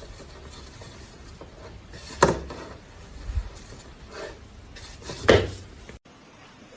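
Two sharp clattering knocks about three seconds apart, the second the loudest, over a steady background hiss, with a fainter knock between them.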